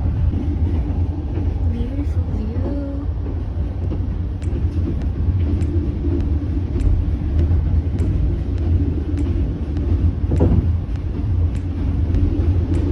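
Passenger train carriage in motion: a steady low rumble from the running gear, with light regular clicks about once a second.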